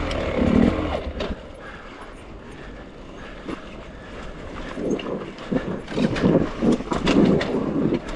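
Dirt bike engine blipping in short uneven bursts at low speed through rocks, with knocks and clatter of the bike against rock. It eases off after the first second, then the bursts and knocks pick up again in the second half.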